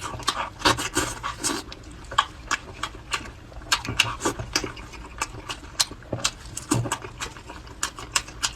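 A person eating close to the microphone: rapid wet smacks and crunchy clicks of chewing, several a second.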